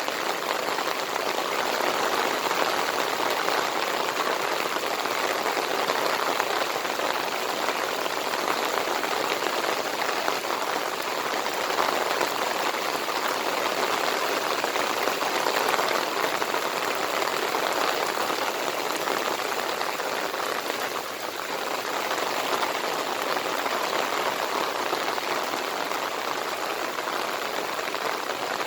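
Heavy monsoon rain pouring steadily, a dense even wash of falling drops, easing slightly for a moment about three-quarters of the way through.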